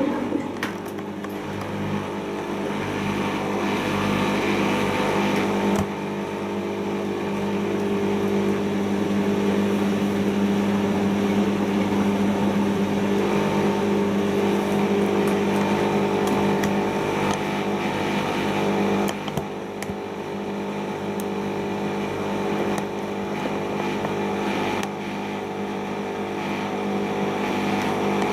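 Siemens iQ front-loading washing machine in its intermediate spin after the cotton wash, the drum spinning with a steady motor whine. The level dips briefly a couple of times.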